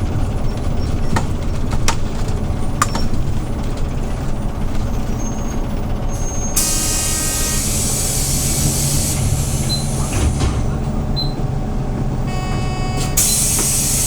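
Hyundai New Super Aero City CNG city bus idling with a steady low engine rumble, with a few clicks early on. About six and a half seconds in, its compressed-air system lets out a loud hiss lasting a couple of seconds, and a second hiss starts near the end.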